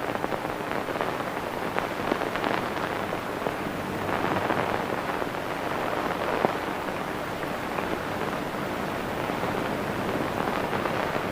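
Steady hiss and crackle of an old optical film soundtrack, with scattered clicks and a faint low hum, and no dialogue or music.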